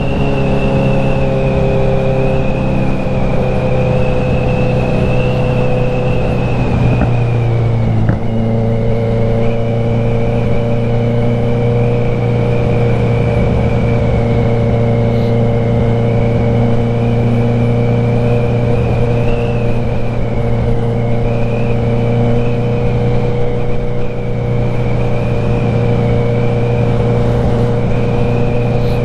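Kawasaki Z900's inline-four engine running on the move. Its pitch eases down over the first several seconds, changes briefly about eight seconds in, then holds steady, with a thin high whine over it.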